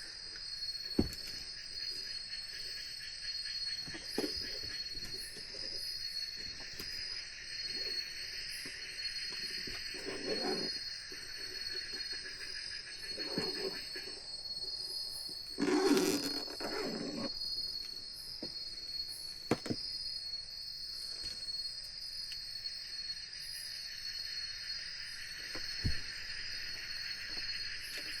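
Night insects trilling steadily in a high chorus, with a few faint knocks and a louder rustle about sixteen seconds in.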